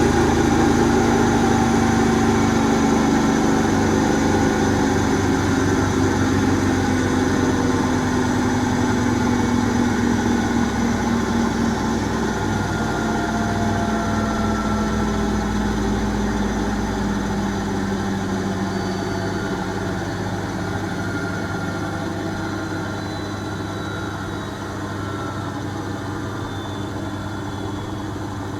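Asko W6098X washing machine's drum and motor winding down from the final spin: a hum and whine that slowly fall in pitch and get quieter, with the low rumble dying away about two-thirds of the way through.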